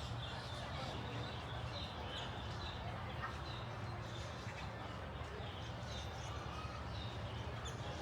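Faint, scattered bird chirps over a steady low hum and distant voices.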